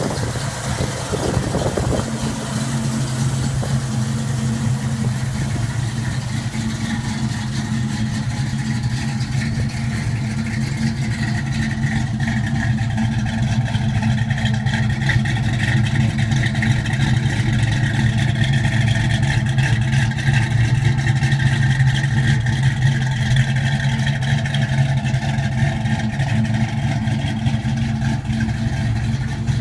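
1968 Ford Mustang engine running at a steady idle, with a low, even note throughout.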